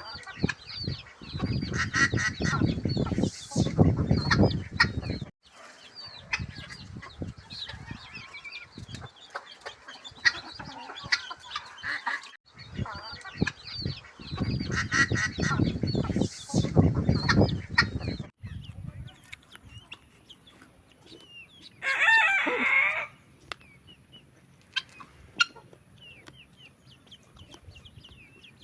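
Newly hatched guinea fowl keets peeping in many small high chirps while a brooding hen clucks, louder in stretches during the first two-thirds. About 22 seconds in, a single loud pitched call stands out over the quieter peeping.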